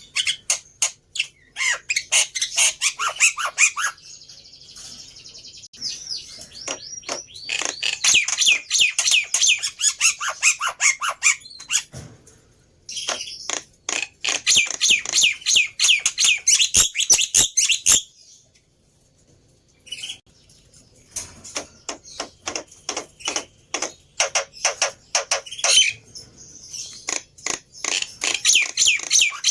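Black-winged myna (jalak putih) calling in bouts of fast, harsh chattering notes, with short pauses between bouts and a longer break about eighteen seconds in.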